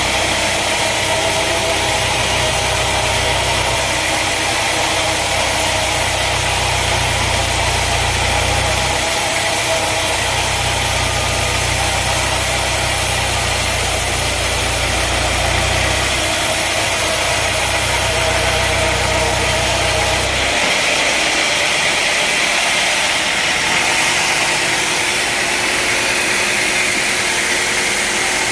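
Sawmill machinery running steadily, a dense mechanical noise over an engine's deep hum. The low hum drops out suddenly about two-thirds of the way through, while the rest of the noise carries on.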